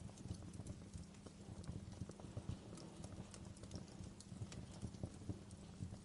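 Wood fire crackling: irregular small snaps and pops over a low, steady rumble.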